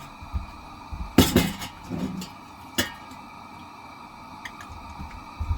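Kitchenware being handled: a quick cluster of sharp clinks and knocks about a second in, the loudest sound, another single clink near the three-second mark, and a few faint ticks after.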